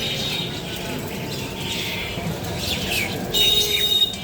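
Small birds chirping: repeated short, downward-sliding calls, with a louder, held high note about three seconds in.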